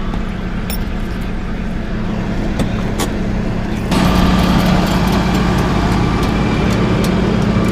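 Car engine running, heard from inside the cabin as a steady drone. About four seconds in it becomes louder, with a steady high whine added.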